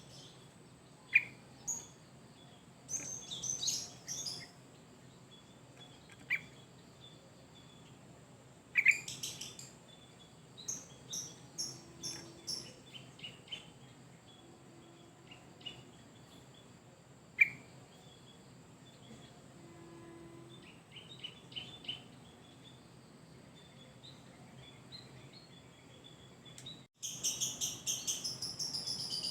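Sooty-headed bulbul (trucuk) singing: scattered sharp calls and short high phrases with gaps between them. After an abrupt cut near the end comes a fast, continuous run of song.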